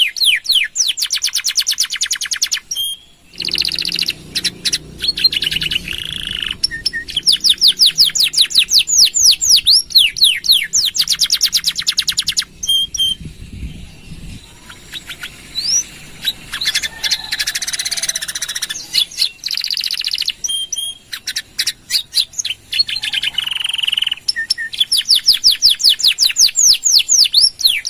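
Domestic canary in full song: long runs of rapid repeated notes, each sweeping downward, alternating with more varied warbled phrases.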